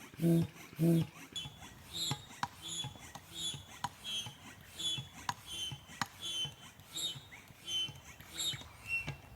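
Hand air pump inflating an air tent, with rhythmic strokes about two a second. Each stroke gives a short squeak. The first couple of strokes are louder and deeper, and the rest are lighter and higher.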